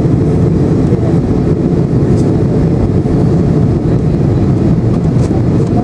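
Steady, loud cabin noise of a Boeing 737-800 descending towards landing: the rush of air past the fuselage and the drone of its CFM56 turbofan engines, heaviest in the low range.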